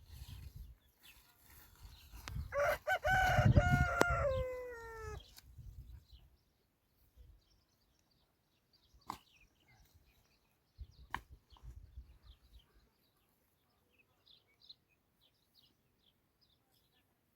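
A rooster crowing once: a single long call of about three seconds, about two and a half seconds in, that drops in pitch at the end.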